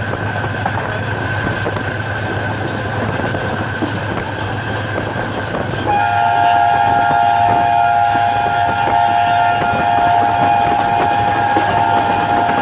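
Train running along the track with a steady rolling noise. About halfway through, a locomotive horn starts and sounds as a steady multi-tone chord, held continuously.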